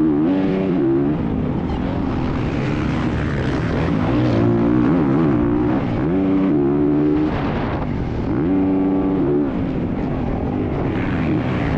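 Motocross dirt bike engine revving under riding, its pitch climbing and dropping again and again as the throttle is opened and shut through the gears, with wind and track noise rushing over the mount.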